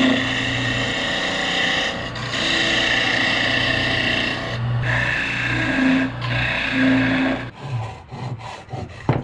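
Wood lathe running while a parting tool cuts into a spinning ash leg: a steady scraping over the motor's low hum, with a few brief pauses. About three-quarters of the way through, the cutting stops and a few scattered clicks and knocks follow.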